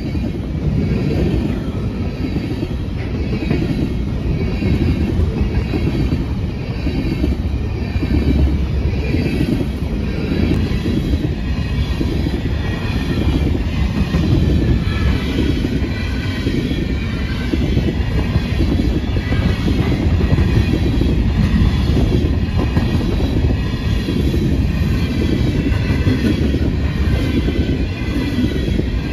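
A BNSF grain train rolling past: a steady low rumble of steel wheels on rail with a regular clatter, and faint wavering wheel squeal.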